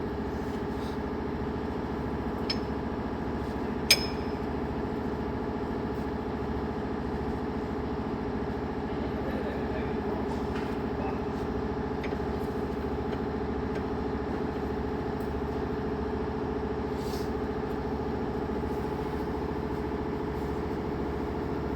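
Truck diesel engine idling steadily, with a sharp metallic click about four seconds in.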